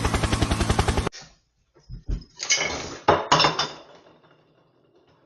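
A fast, even pulsing whirr that cuts off suddenly about a second in, followed by a few knocks and clattering hits, like objects being knocked about, that die away.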